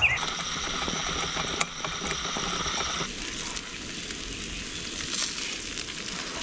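Food sizzling in a frying pan on a camp stove, a steady hiss with scattered pops and crackles; the sound changes about three seconds in.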